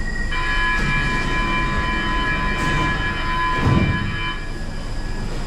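Train horn sounding one held chord for about four seconds over the low rumble of the station, with a short low thump near the end of the tone.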